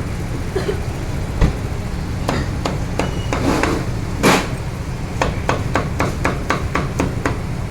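Repeated sharp knocks on a hard surface in grilled-beef food preparation, coming about two to three a second in the second half, over a steady low hum.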